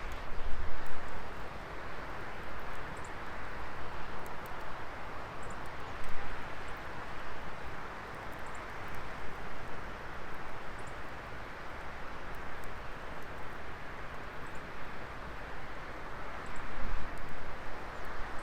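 Wood fire burning in a fire pit: a steady hiss of flames with scattered small crackles and pops, and a few low rumbles near the start and again near the end.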